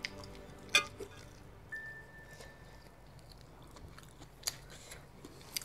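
A person chewing a mouthful of prawn noodle soup, with a few sharp clicks, the loudest under a second in and two more near the end.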